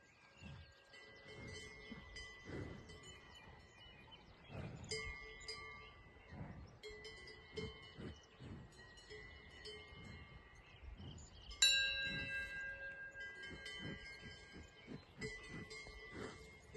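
Several bells of different pitches clanking and ringing at irregular moments, with the loudest clang about eleven and a half seconds in. These are cowbells worn by grazing dairy cows, swinging as the cows move their heads.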